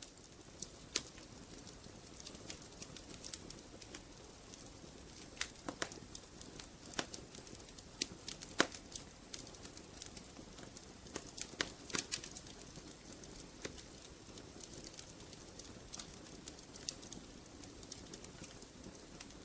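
Wood fire in a fireplace crackling, with frequent irregular sharp pops over a soft steady hiss.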